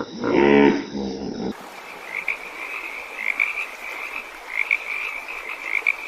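A short pitched animal call, then an abrupt cut to frogs croaking: repeated short, high calls in clusters over a steady background.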